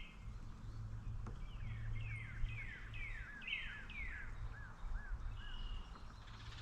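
A songbird singing a run of about six quick down-slurred whistled notes, with a short steady note after them, over a steady low background rumble.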